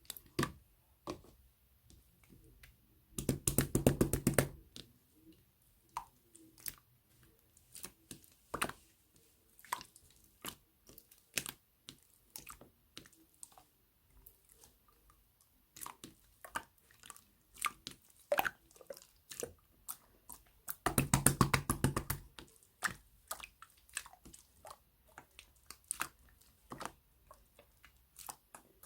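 Milk slime being squished and pressed by hand: scattered wet clicks and pops, with two longer stretches of rapid crackling squelches, about three seconds in and again about twenty-one seconds in.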